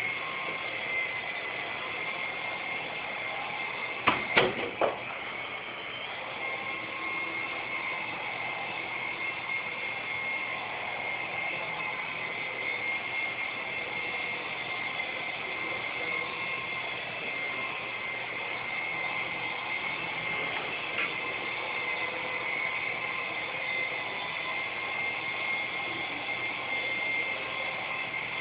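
S107G mini RC helicopter's small electric motors and coaxial rotors running with a steady high whine. A few sharp knocks come about four seconds in.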